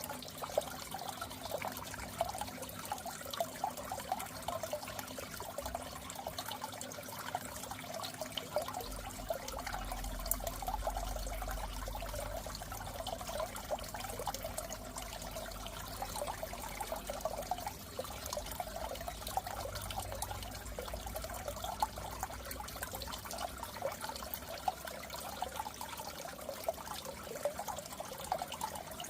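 Water trickling and splashing steadily in a goldfish aquarium, a continuous gentle flow with small drips and ticks.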